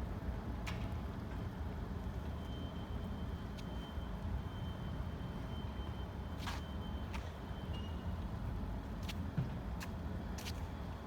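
Steady low vehicle rumble, with scattered light clicks and a faint, thin high tone held for several seconds in the middle.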